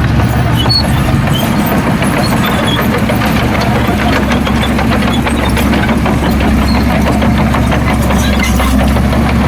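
Heavy diesel engine of earthmoving machinery running steadily: a deep, even drone with light scattered clicks over it.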